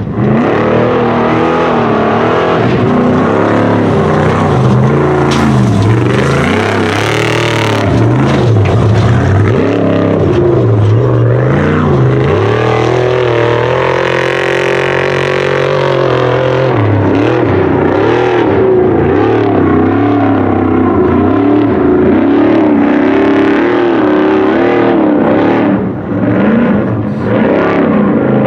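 Loud trophy-truck engine running hard, its pitch climbing and dropping again and again as the throttle opens and closes.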